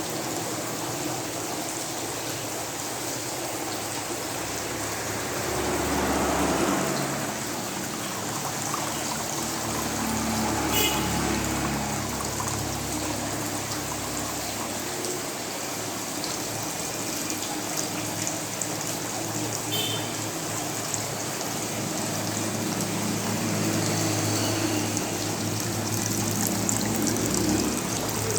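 Water splashing and trickling steadily down a small homemade waterfall fountain, with a low hum underneath.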